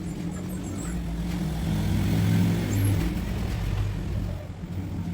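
A low, steady motor drone that grows louder to a peak about two and a half seconds in, then eases off.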